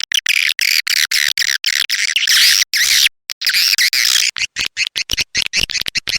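Swiftlet lure call: a recorded track of dense, high-pitched swiftlet chirping and twittering, played to draw swiftlets into a nesting house. It is broken by abrupt short silences, and from about four seconds in it becomes separate short chirps, several a second.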